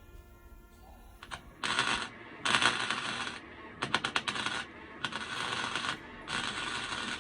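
Flux-core wire welder laying short stitch welds: five crackling bursts, each under a second, with brief pauses between.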